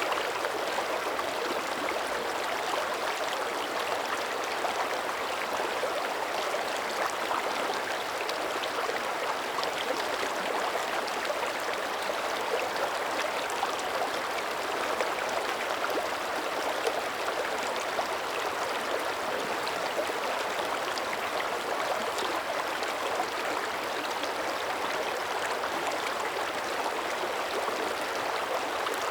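Shallow mountain creek running steadily over rocks, a continuous rushing babble with fine splashing and gurgling.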